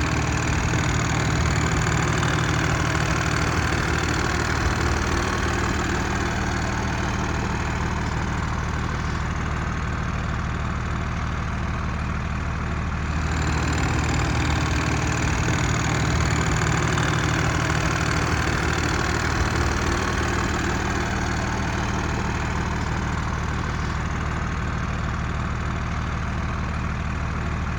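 Cummins ISC diesel engine of a Peterbilt 330 truck idling steadily.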